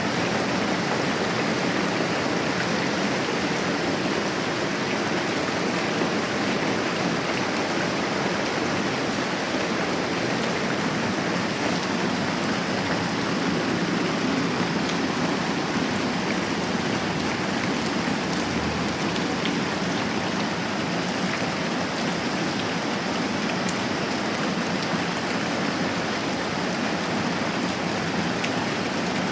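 Moderate rain falling steadily, an even, unbroken hiss of rain.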